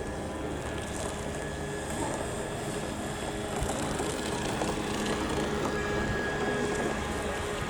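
Wind rumbling on the microphone over the steady whine of a small boat motor running out on the lake.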